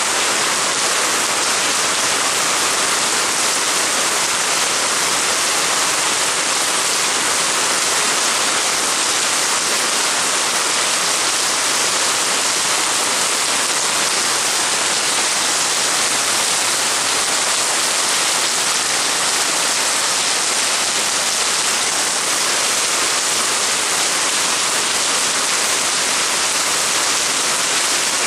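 Heavy rain falling steadily, a loud, dense, even hiss with no let-up and no thunder.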